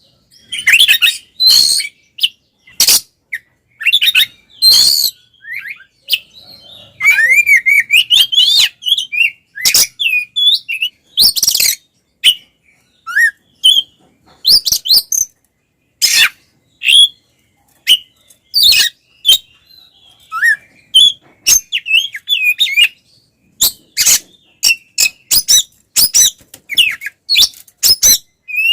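Oriental magpie-robin (kacer) singing loudly and without let-up in agitated, rival-provoking fighting song. Short rising whistles are mixed with harsh, clicking chatter notes in rapid phrases separated by brief pauses.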